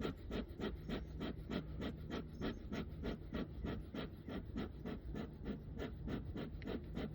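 Bee smoker's bellows pumped quickly, about four puffs of air a second, to keep the fuel smouldering as the smoker is going out.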